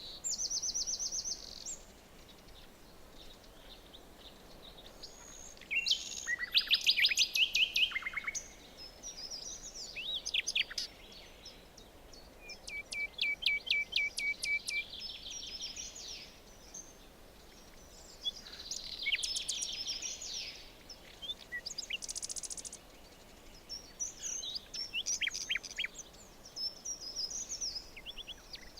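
Forest birdsong: several songbirds singing in turn, with quick series of high chirps and trills every few seconds over a faint steady background hiss.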